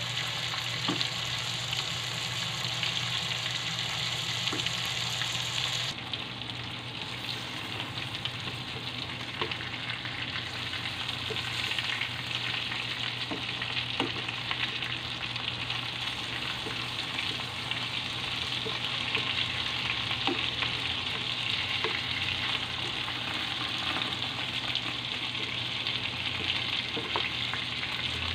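Chicken and pork pieces sizzling steadily in hot oil in a nonstick frying pan, with a wooden spatula tapping and scraping now and then as the meat is turned.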